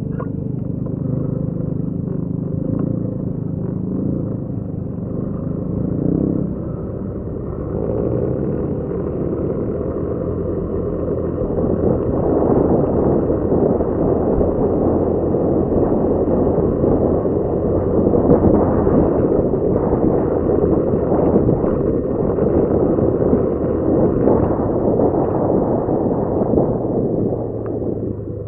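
Motorcycle engine running while riding. A loud rushing noise builds over the engine from about a third of the way in and stays heavy until near the end.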